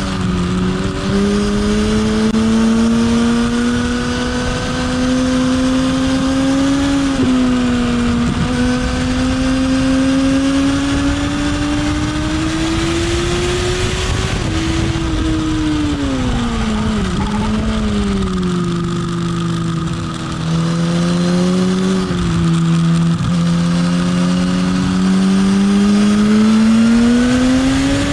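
Sport motorcycle engine on track, its pitch climbing and falling as it accelerates and slows, with brief dips. It drops deeply around the middle and climbs again near the end, over a steady rush of wind noise.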